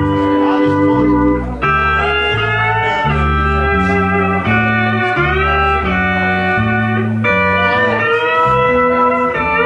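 Pedal steel guitar playing a slow country instrumental: sustained chords that glide smoothly up and down in pitch between held notes. A bass line steps beneath it about twice a second.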